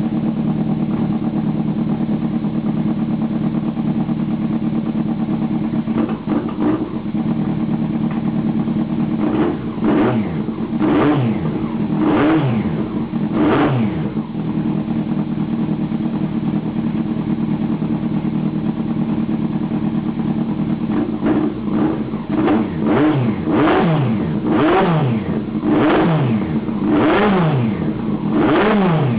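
1998 Yamaha R1's inline-four through a stubby carbon MotoGP-style exhaust, idling steadily just after starting, then revved in quick throttle blips that rise and fall in pitch: a few from about nine seconds in, then in quick succession for the last several seconds.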